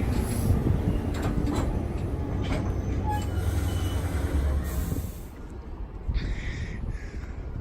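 New Jersey Transit commuter train rumbling through the station with scattered clacks from the wheels, the rumble dropping off about five seconds in, followed by a few short hisses.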